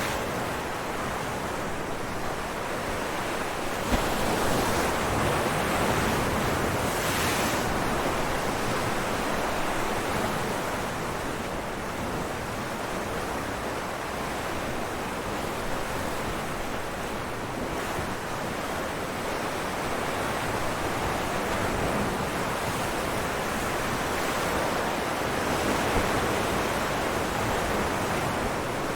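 Ocean waves breaking on rocks, a continuous rush of surf that swells as a wave comes in about four seconds in and again near the end. Wind noise on the microphone mixes with the surf.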